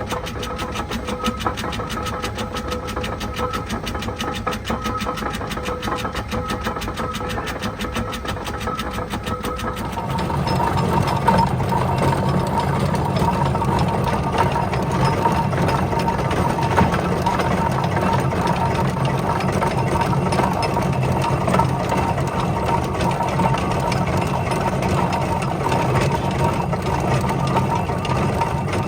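Tractor engine running with an even, rapid firing beat, growing louder and heavier about ten seconds in.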